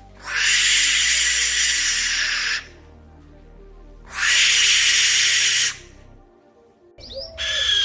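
Barn owl screeching twice, each a long, raspy, hiss-like screech of about two seconds. A shorter call follows near the end. Soft background music runs underneath.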